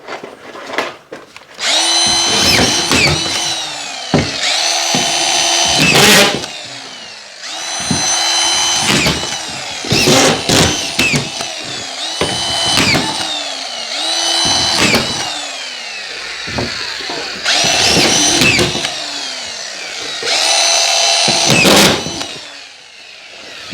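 Power drill driving screws through a plasterboard ceiling sheet into the timber framing, in repeated runs of one to two seconds, each whine winding down in pitch as the trigger is released.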